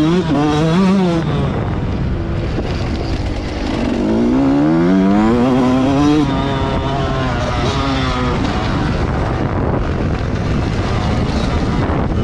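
Motocross bike engine revving on a track: a short rise and fall in revs at the start, then a longer climb over about two seconds in the middle that cuts off sharply, followed by lower revs easing down. Steady wind and rumble noise runs under it throughout.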